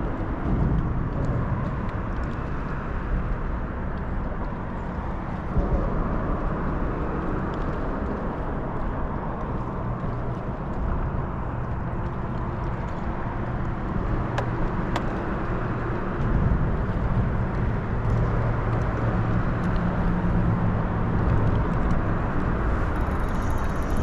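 Boat motor running steadily with a low rumble, mixed with wind rushing over the microphone.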